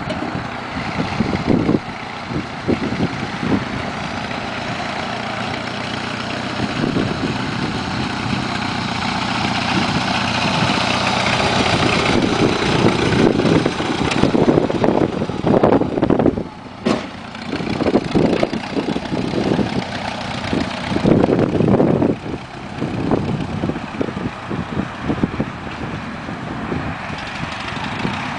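Small garden tractor engine running steadily, with an uneven low rumble and a brief drop in level about sixteen seconds in.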